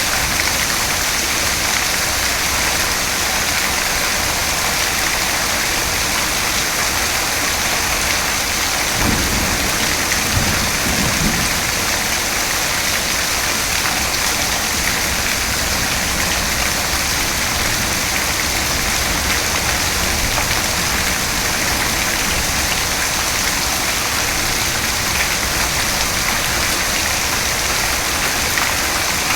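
Steady, dense rainfall hissing on surfaces, with a short low rumble of distant thunder about nine seconds in that fades after a couple of seconds.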